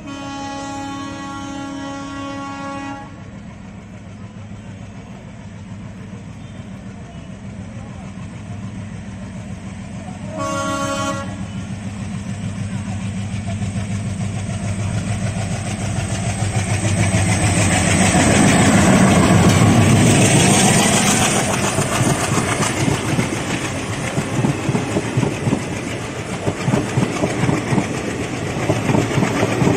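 Diesel locomotive sounding its horn, one long blast and then a short one about ten seconds later, as it approaches. Its engine grows steadily louder and is loudest as it passes, then the passenger coaches roll by with a rhythmic clatter of wheels over the rail joints.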